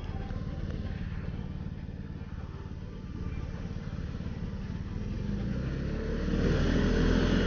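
Motorcycle engine running under way, a low pulsing note with road and wind noise, picked up by a helmet-mounted camera. It grows louder in the last couple of seconds.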